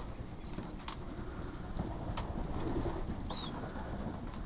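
Young racing pigeons cooing in the loft, over a low rumble, with a few light knocks and a short high squeak about three and a half seconds in.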